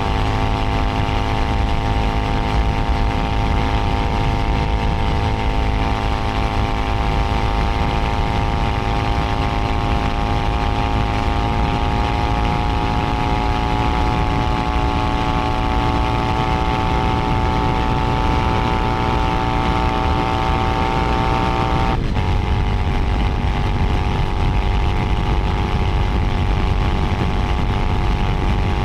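Keeway SCR 250V's V-twin engine running on stock exhaust while riding. Its note rises slowly and steadily, then drops abruptly about three quarters of the way through and holds lower. A steady low rumble sits underneath throughout.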